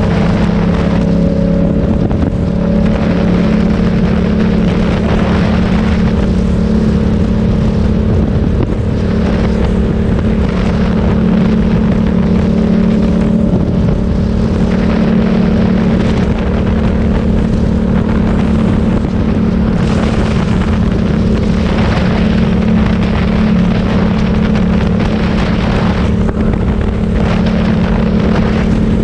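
Motorcycle engine running at a steady pitch while riding, with wind noise on the microphone.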